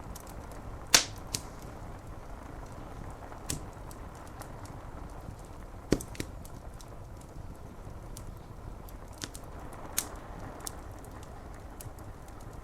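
Wood fire crackling, with scattered sharp pops, the loudest about a second in and others around six and ten seconds, over a steady hiss of rain on window glass.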